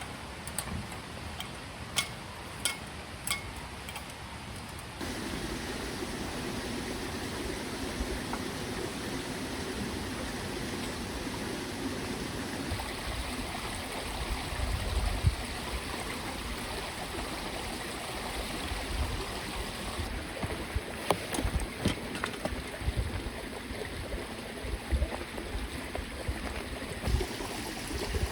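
Small mountain creek flowing and trickling over stones. It grows fuller and louder after about five seconds, and a few sharp clicks and knocks sound over it, most in the first few seconds.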